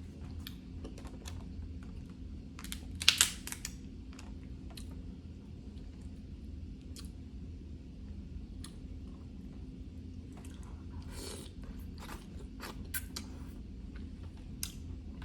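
Eating snow crab legs: scattered cracks, snaps and small clicks of the crab shells being broken and picked, with chewing in between. A louder crunch comes about three seconds in, and another run of clicks near the end.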